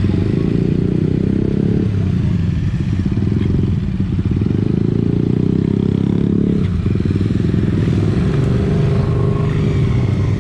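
Motorcycle engine running under way, the revs climbing and dropping several times as the bike accelerates and changes gear, with a brief dip about two-thirds of the way through.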